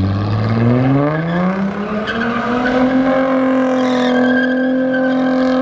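Engine revving up over the first few seconds and then held at high revs during a burnout, with tyres squealing as they spin on the pavement.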